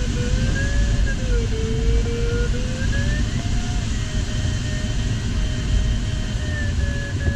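Sailplane cockpit: the electronic variometer's audio tone wavers up and down in pitch, tracking the glider's climb and sink, and breaks into short beeps near the end. Steady airflow noise from the glider's flight runs under it.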